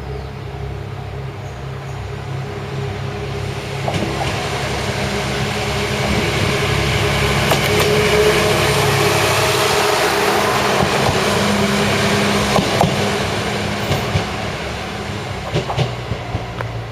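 Diesel train running on the Mizushima Rinkai Railway, its engine a steady low drone under rail noise that builds to a peak midway and then eases off. Sharp wheel clicks over rail joints come near the end.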